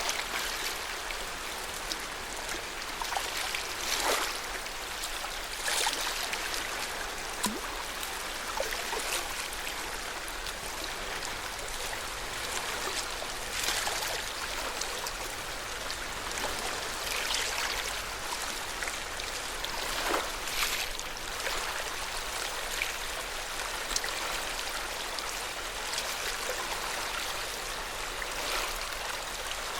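Lake water lapping and splashing gently. A steady wash of water is broken by frequent small, irregular splashes.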